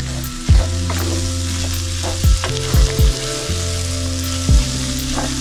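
Tripe and onions sizzling as they fry in a stainless-steel pan, stirred and scraped with a wooden spoon. Low background music with a few deep beats runs underneath.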